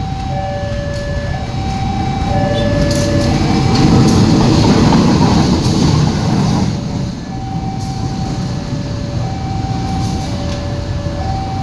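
A level-crossing alarm sounds two alternating tones over and over while a train runs past. The train's rumble grows loudest about four to six seconds in, then eases off.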